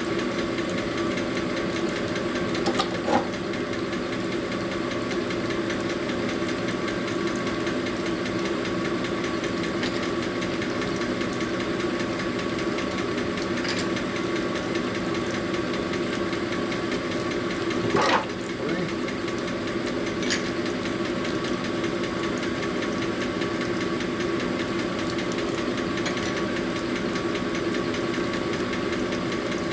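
Electric motor of a shop machine running steadily at an even pitch, with a few metal clicks and clinks, the sharpest about 18 seconds in.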